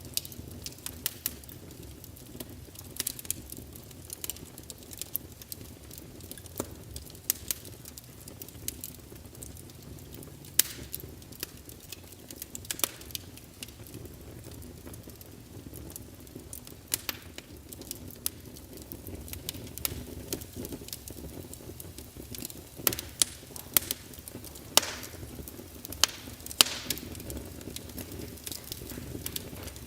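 Wood fire in a fireplace crackling, with irregular sharp pops and snaps, a few louder ones clustered near the end, over a steady low rumble of burning.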